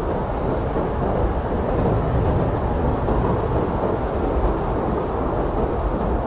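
Strong steady wind blowing, a dense low rushing with no gusts standing out, as in a snowstorm.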